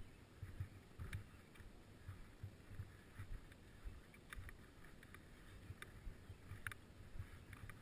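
Faint rattling of a bicycle being ridden: irregular low bumps with scattered light clicks.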